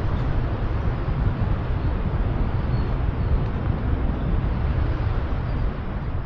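Wind buffeting the microphone: a steady, gusty low rumble with a rushing hiss over it.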